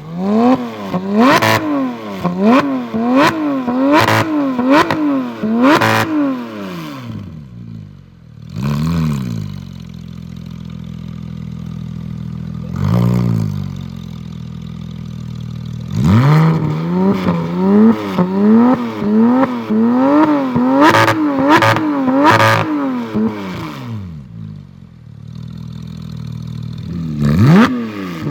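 Porsche 991 GT3 flat-six engine through an iPE Innotech titanium exhaust, free-revved in quick repeated blips about once a second, with sharp cracks at several of the peaks. It settles to a steady idle between two runs of revs, with single blips near the middle and a new rev starting near the end.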